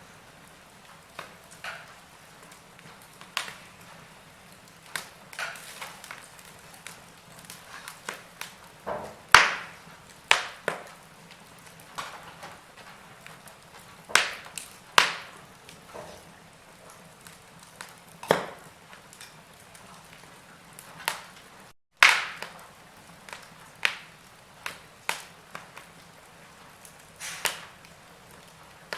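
Wood fire in a fireplace crackling, with sharp pops at irregular intervals, about one a second, over a faint steady hiss. The sound drops out for a split second about three-quarters of the way through, just before one of the loudest pops.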